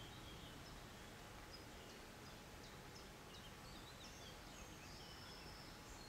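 Quiet outdoor background with a steady low rumble, and a small bird faintly singing short, high notes from about a second and a half in.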